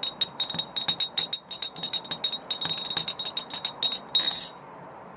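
A metal teaspoon stirring tea in a glass, with rapid ringing clinks against the glass that stop abruptly near the end.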